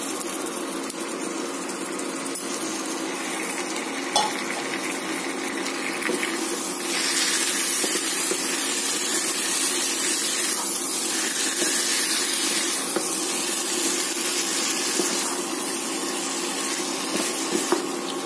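Raw chicken pieces sizzling as they fry in hot oil and spice paste in a pan, stirred with a wooden spatula that knocks against the pan. The sizzle grows louder about seven seconds in.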